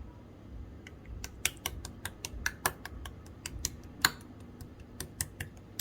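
Clear slime being squished and pressed by hand, giving a run of sharp, irregular clicks and pops that start about a second in.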